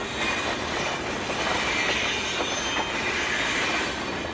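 A freight train rolling steadily past, its steel wheels squealing and clattering on the rails.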